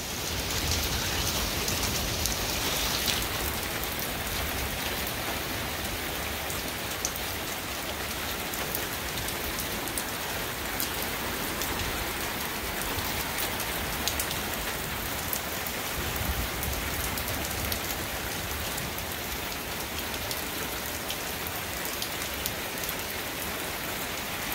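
Heavy rain falling steadily during a thunderstorm, with many small sharp ticks of drops striking surfaces.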